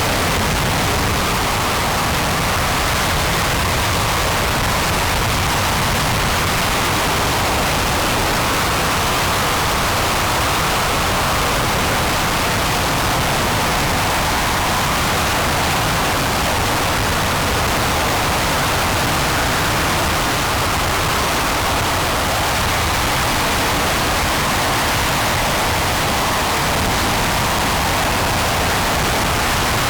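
RS-25 liquid-hydrogen/liquid-oxygen rocket engine firing on the test stand: a loud, steady rushing noise that holds level without a break.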